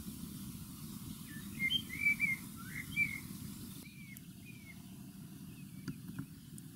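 A songbird chirping in short whistled phrases: a cluster about one to three seconds in and two more at about four seconds. Underneath is a steady low outdoor rumble.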